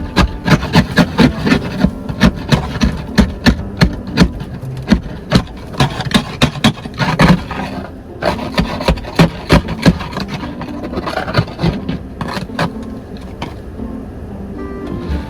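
Ice scraper scraping ice and packed snow off a car's windshield in quick hard strokes, about two to three a second, easing off about twelve seconds in. A car engine runs steadily underneath.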